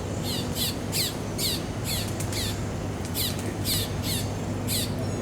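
A bird calling repeatedly: two runs of short, sharp, downward-sliding notes, about two to three a second, with a brief pause between the runs, over a steady low hum.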